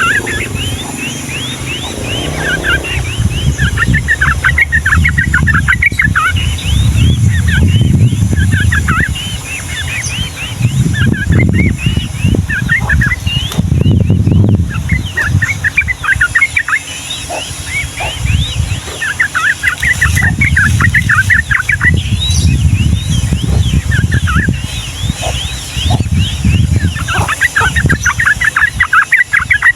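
Yellow-vented bulbul (trucukan) singing in long rolls of rapid chattering notes, several bouts with short pauses between them. A loud low rumble runs underneath.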